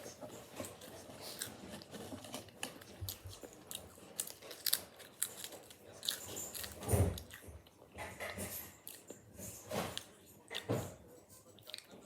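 A person chewing and biting potato crisps, with irregular crunches, the loudest about seven seconds in.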